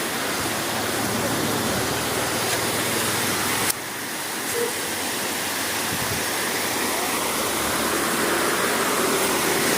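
Steady rush of water from a small waterfall running at a low flow, with a sudden dip in level a little under four seconds in.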